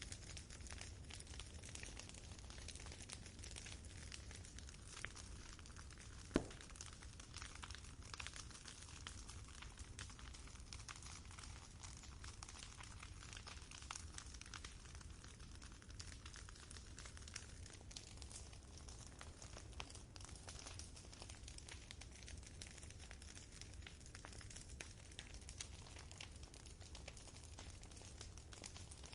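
Campfire crackling quietly, with a steady low rumble beneath and one sharper pop about six seconds in.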